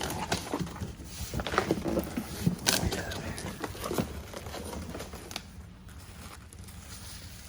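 Packaging crinkling and rustling with scattered knocks and clicks as exhaust parts are unpacked from their box; the handling settles down about five seconds in.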